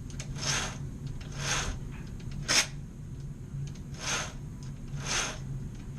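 Chainsaw chain on a Husqvarna 562xp being flicked around its guide bar by hand, a short rasping whirr about once a second as the chain runs around the bar, with one sharper click near the middle. The chain runs freely on a clean bar with a well-greased sprocket nose. A steady low hum runs underneath.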